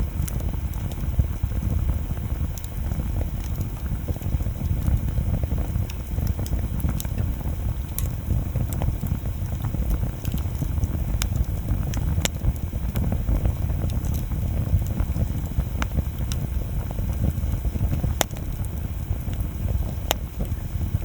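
Wood bonfire burning, with a steady low rush of flame and irregular sharp crackles and pops from the burning wood.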